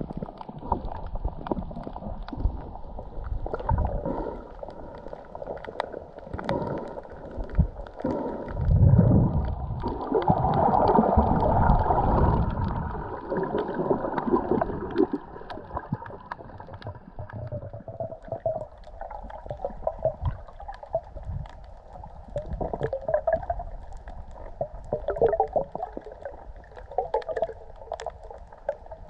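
Water sloshing and gurgling in irregular surges, muffled, with the loudest swell about a third of the way in.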